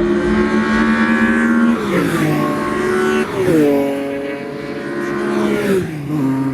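A car's engine running hard under load at the track. Its note drops sharply three times, just before two seconds in, a little after three seconds and near the end, as the gears change.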